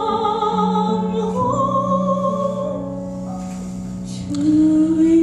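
A woman singing long held notes with vibrato over piano accompaniment: a musical-theatre ballad. A new, louder held note comes in just past four seconds.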